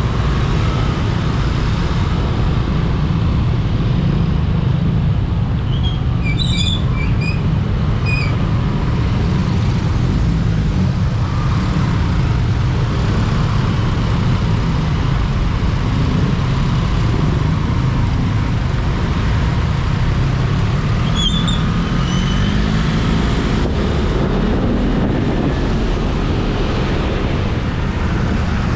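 Steady road and wind noise of a motorcycle riding through traffic, a dense low rumble throughout. A few brief high-pitched chirps come about six to eight seconds in and again around twenty-one seconds.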